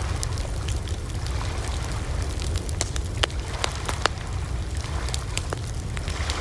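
Campfire burning with a steady low roar and frequent sharp crackles and pops of burning wood, two louder pops about three and four seconds in.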